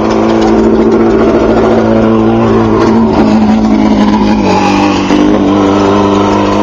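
Race car engine running steadily at a fast idle, its pitch dipping slightly about four and a half seconds in.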